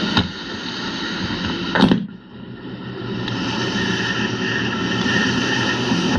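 Motorboat engine running steadily, with two sharp knocks, one just after the start and one just before two seconds in. After the second knock the sound briefly drops, then swells back.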